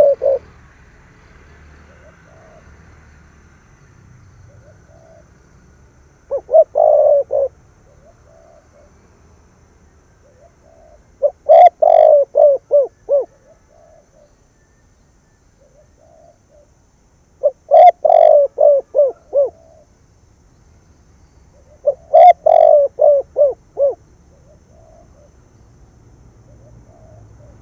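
Spotted dove cooing: four loud phrases of several short coos each, about five seconds apart, with faint softer coos between them.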